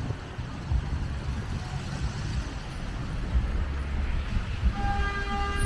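Low, steady rumble of city street traffic; near the end a vehicle horn begins sounding a steady tone.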